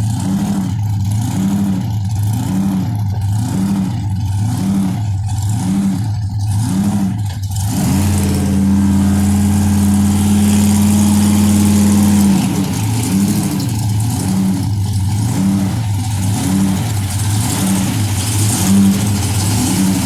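Hot rod engine idling with a rough, loping beat that surges about once a second, typical of a big cam. About eight seconds in, it is revved and held at a steady higher speed for about four seconds, then drops back to the loping idle.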